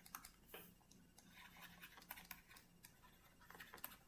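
Faint scratching and light irregular taps of writing, close to near silence.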